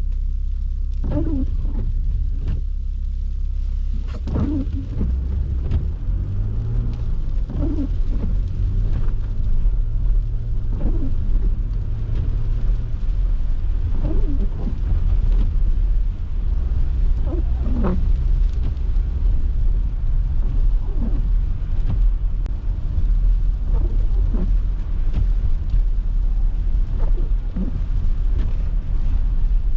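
Low, steady rumble of a car driving on snowy city streets, with scattered short higher-pitched sounds over it.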